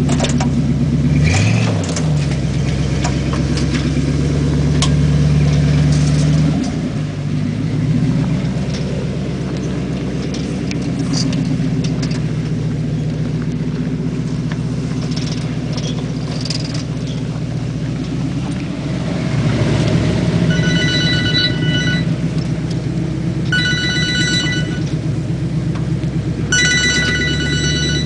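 Chevy Blazer 4x4 engine running steadily, its pitch shifting twice in the first seven seconds. Over it, in the last eight seconds, a high electronic ringing tone sounds three times, about three seconds apart.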